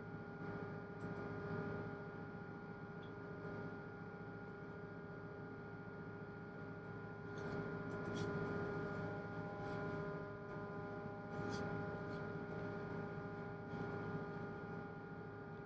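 Single-screw tugboat's diesel engine running, a steady drone with a constant hum and a few faint clicks.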